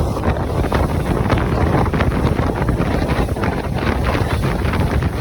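Heavy wind buffeting a camera microphone, with a continuous low rumble and rapid gusty crackles.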